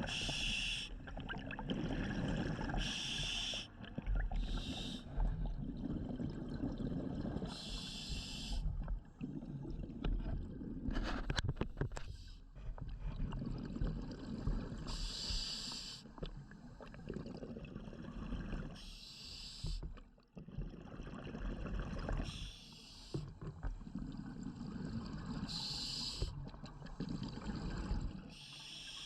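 Scuba regulator breathing recorded underwater: a hissing rush of exhaled bubbles every few seconds over a steady low rumble. A short cluster of clicks comes about 11 seconds in.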